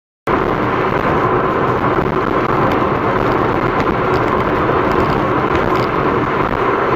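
Steady road and engine noise of a moving car, cutting in abruptly just after the start.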